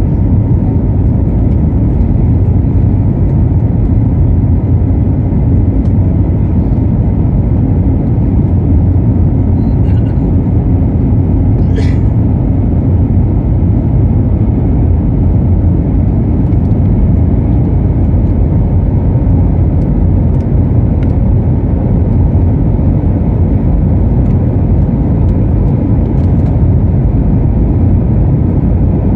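Steady jet engine noise heard inside an airliner cabin during takeoff: an even, loud rumble with a faint steady hum in it. A brief sharp sound comes about halfway through.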